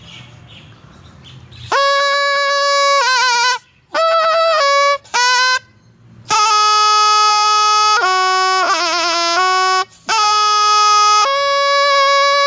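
Thai pi reed pipe playing a solo melody: long held notes broken up by quick wavering trills and ornaments, coming in about two seconds in, with short breaks between phrases.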